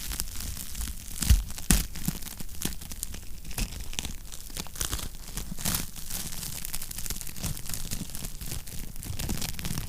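Wood fire crackling in a fireplace: a steady run of small irregular crackles and pops, with two louder pops a little over a second in.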